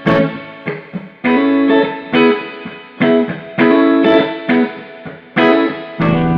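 Electric guitar played through a Fender Hot Rod Deville 212 tube combo amp, which is being sound-tested after repair. Chords are struck in a loose rhythm, each ringing out and dying away before the next.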